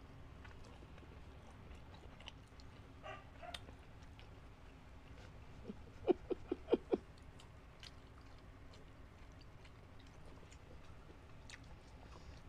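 Close-miked mukbang eating: quiet chewing and small mouth clicks on grilled isaw (chicken intestine) and betamax (pork blood cubes). About six seconds in there is a quick run of about five louder, short mouth smacks.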